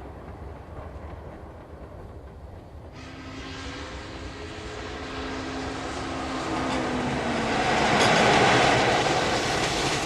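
Passenger train running on the track, a steady rumble of the cars that grows louder through the middle and peaks about eight seconds in. A held tone lies over it from about three and a half to seven seconds.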